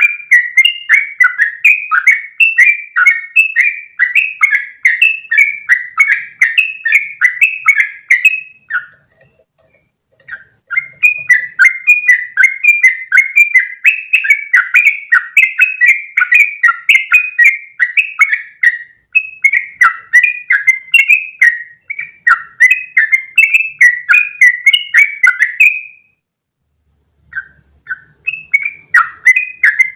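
Yellow-vented bulbul (trucukan) singing long, rapid runs of repeated chattering notes, the rolling 'ropel' song. The song breaks off about eight seconds in and again near the end, each time resuming after a pause of about two seconds.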